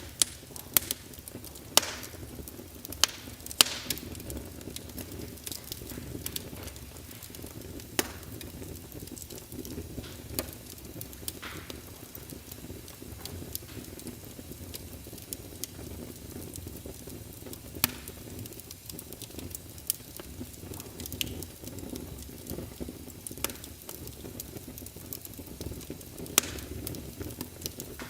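Wood fire crackling in a fireplace: a steady low rumble of the flames with irregular sharp pops, several close together in the first few seconds, then scattered.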